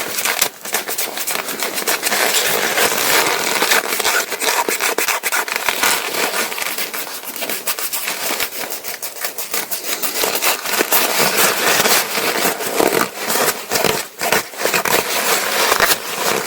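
A hand rubbing a ripstop nylon repair patch down onto paraglider canopy fabric: continuous brisk rubbing with fabric rustle, pressing the patch so it sticks.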